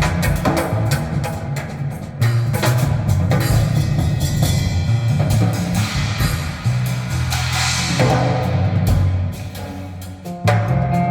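Recorded music played through hi-fi loudspeakers and picked up by a microphone in the room: drums and percussion struck over a deep bass line. The music drops back briefly near the end before the percussion comes back in.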